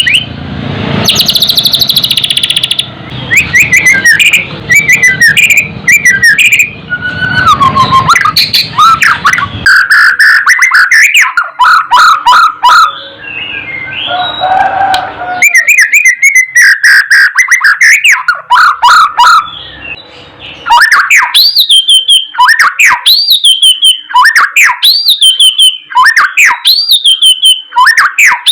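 White-rumped shama singing loudly: a varied run of clear whistles and fast chattering notes with a harsh rasping burst near the start, settling in the last third into a phrase of sweeping whistles repeated about once a second.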